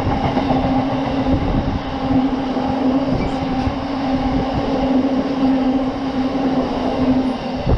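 Train passing close by: a steady rumble of wheels on the rails with a constant droning tone.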